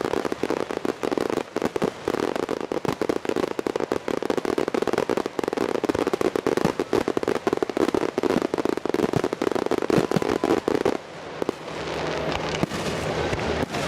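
Fireworks going off in a dense run of rapid pops and crackles, easing off about eleven seconds in.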